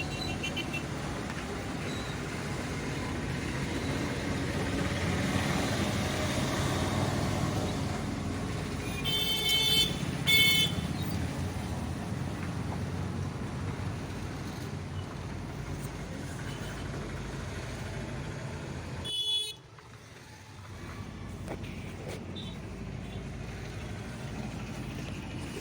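Steady traffic noise with vehicle horns: two short toots about nine to ten seconds in and one more around nineteen seconds. The sound then drops off suddenly.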